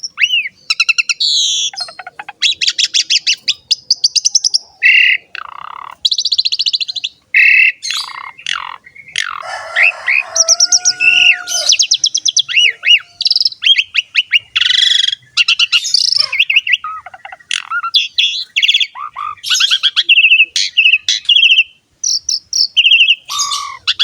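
Asian pied starling (jalak suren) singing in full song: a continuous, varied run of rapid buzzy trills, chattering notes and short rising and falling whistles, broken by brief pauses.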